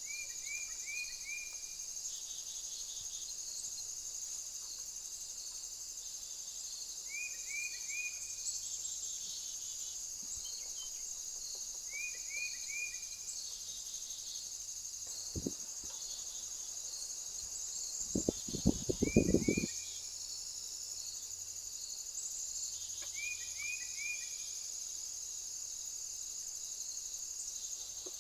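A steady, high-pitched insect chorus, crickets or similar, with a short run of three or four quick chirps repeating every four to five seconds. A single knock comes about halfway through, then a brief rapid run of loud taps.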